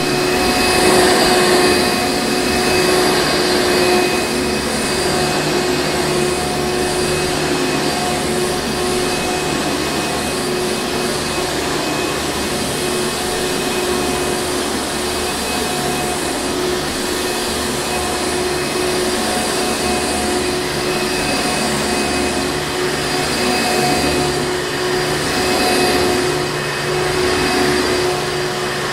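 Hoover Encore Supreme upright vacuum cleaner running steadily: a loud, constant motor whine that holds one pitch throughout, with only slight swells in level.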